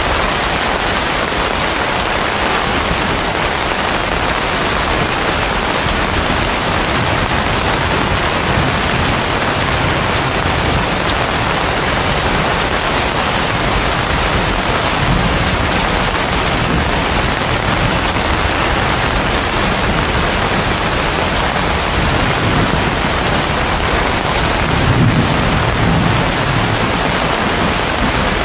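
Heavy rain falling steadily on dense leafy vegetation, a continuous loud hiss. Low rumbles swell up twice, around halfway through and near the end.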